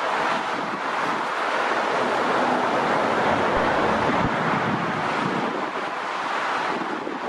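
Jet airliner engines heard as a steady rushing noise as an aircraft passes the airfield, swelling slightly mid-way and easing a little near the end.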